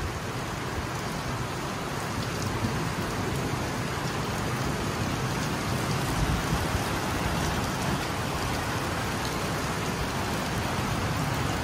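Heavy rain pouring down steadily, a dense even hiss with faint scattered drop ticks.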